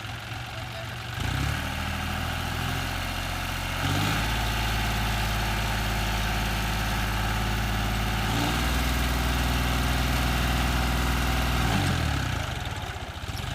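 Diesel engine held at raised revs, throttled up in three steps about a second, four seconds and eight and a half seconds in, then dropping back near the end.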